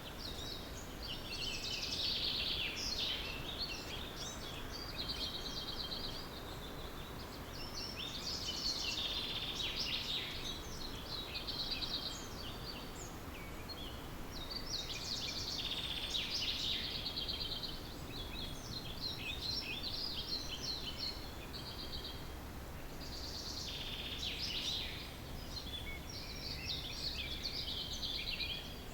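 Wild songbirds singing at dawn, with song phrases coming in four bouts, about one every six to seven seconds, over a steady low background rumble.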